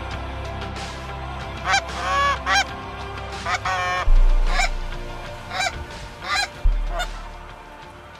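Canada geese honking, about nine short calls in irregular succession.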